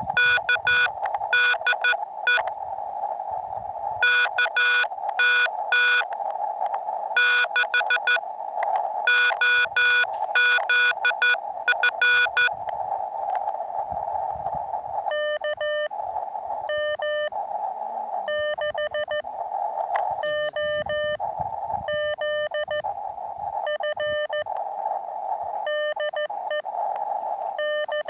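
Morse code (CW) from a portable ham radio transceiver on the 40 meter band: rapid on-off keyed beeps over a steady narrow band of receiver hiss. The beeps are loud for about the first twelve seconds, then come back fainter from about fifteen seconds in.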